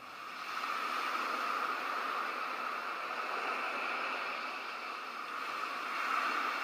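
Ocean surf washing in a steady rush that fades in over the first second and swells again near the end.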